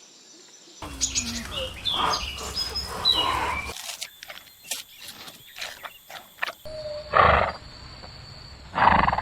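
Animal sounds from a run of short clips: gliding calls and clicks, then two loud calls about two seconds apart near the end.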